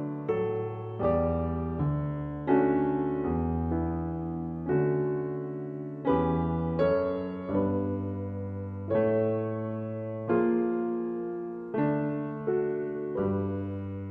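Gentle background piano music: slow chords struck about every three-quarters of a second, each left to ring and fade.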